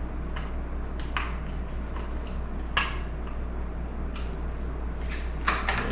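Scattered light clicks and taps, about half a dozen, from handling a small chainsaw and tools on a workbench during a carburettor idle adjustment, over a steady low hum.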